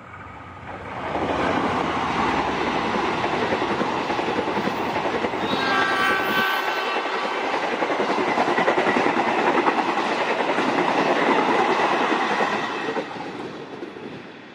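Passenger train passing close at speed, its wheels rolling and clattering over the rails. A multi-tone locomotive horn sounds briefly about six seconds in. The noise fades as the last coaches move away near the end.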